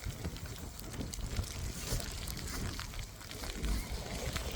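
Blizzard wind buffeting the microphone in uneven low gusts, with faint scattered ticks of ice pellets falling.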